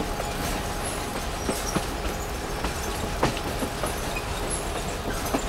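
Passenger railroad coach rolling along the track, heard from an open window: a steady rumble and hiss of the running train, with a few sharp clicks and knocks from the wheels on the rails at irregular intervals.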